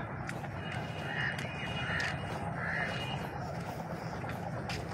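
A bird calling three times, short calls a little under a second apart, over a steady low rumble.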